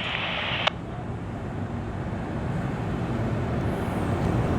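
Radio scanner hissing with an open, empty channel, cut off by a squelch click under a second in. After that comes a low, steady background rumble that grows slightly louder.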